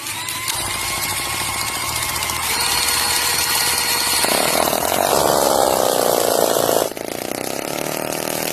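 Small 2.6cc engine running fast while driving a water pump, a loud, steady high-pitched whine. About seven seconds in the sound suddenly drops in level and the pitch shifts, then it runs on steadily.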